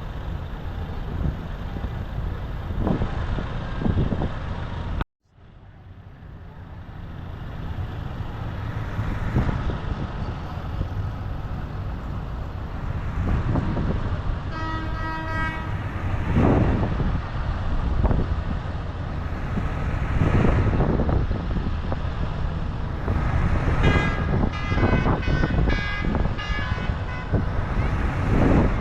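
Tractor engines running as tractors pass one after another, with a horn held for about a second around the middle and a series of horn toots on several pitches near the end. The sound cuts out briefly about five seconds in.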